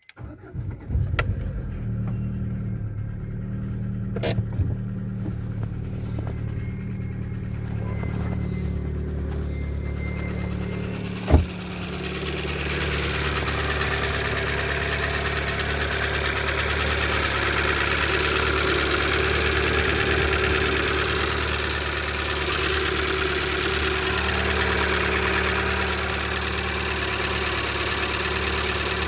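Car engine starting and then idling, with a knock that the owner says remains after the hydraulic lifters were replaced. A single sharp bang sounds about 11 seconds in, after which the running engine sounds louder and fuller.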